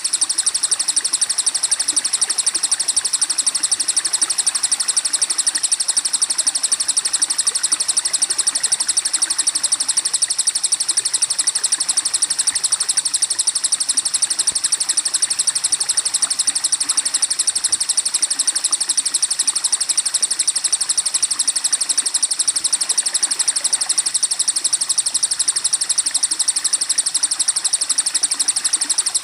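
Looped bird-song training recording: a loud, unbroken, very fast high-pitched pulsing trill over a softer even hiss.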